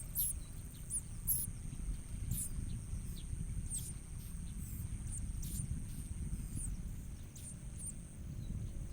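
Bar-winged prinias calling with short, very high-pitched chirps, one or two a second, over a steady high thin tone and a low background rumble.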